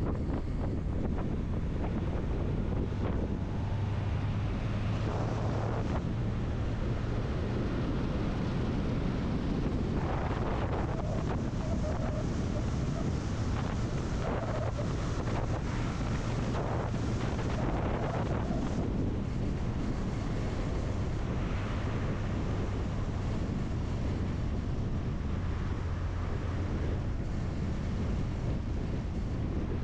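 A vehicle driving on the road: a steady low engine drone under road and wind noise, with wind buffeting the microphone. The noise swells a few times midway.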